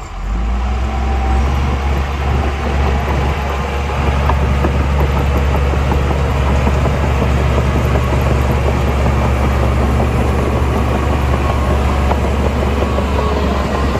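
Heavy diesel earthmoving machinery running steadily with a deep engine drone.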